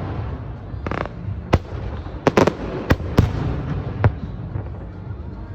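New Year fireworks display: a string of sharp aerial shell bursts, about eight bangs with several in quick succession, bunched in the first four seconds over a steady low rumble.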